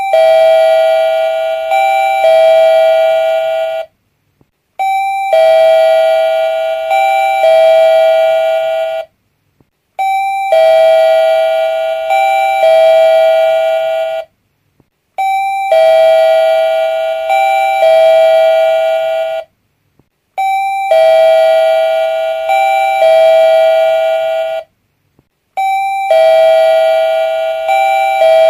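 Doorbell chime ringing over and over, a two-note ding-dong about every five seconds. Each note is held about two seconds, with a short silence between rings.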